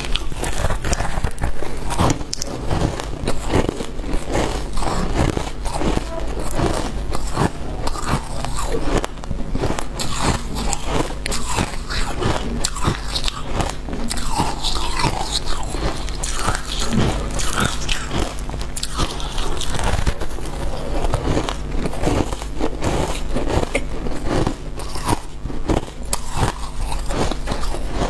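Close-up biting and chewing of freezer frost: dense, irregular crunching that carries on throughout.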